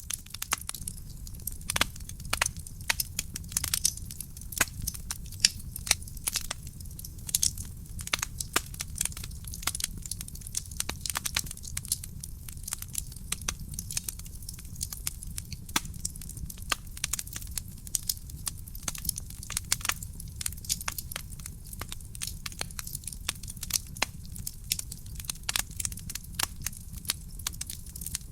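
Real wood fire burning in a fireplace: frequent sharp crackles and pops of the burning logs, irregular and of varying loudness, over a steady low rumble.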